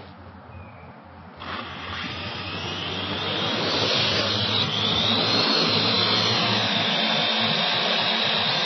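Parrot AR.Drone 2.0 quadcopter's four electric motors and propellers spinning up about a second and a half in, growing louder over two seconds into a steady whir with a high whine that rises and then holds level.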